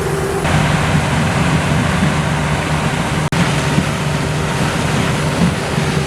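Heavy diesel harvest machinery running steadily: an engine drone under a broad mechanical rush. The sound changes abruptly about half a second in and drops out for an instant a little after three seconds.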